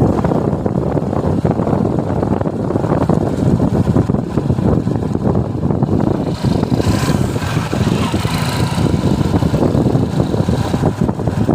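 Suzuki Gixxer motorcycle on the move: steady engine and road rumble with wind buffeting the microphone. A brighter rushing noise joins for a couple of seconds about two-thirds of the way through.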